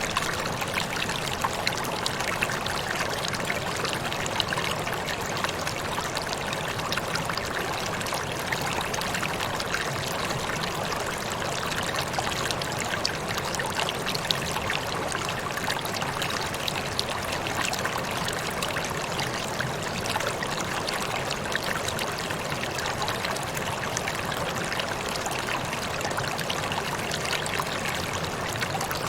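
Waterfall: water pouring and splashing in a steady, unbroken rush, flecked with tiny crisp splashes.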